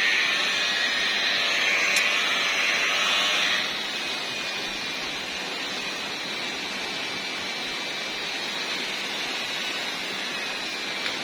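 Electric machine polisher running on car paint at its slow speed setting, a steady whirring that is louder for the first three and a half seconds, then drops and runs on more quietly.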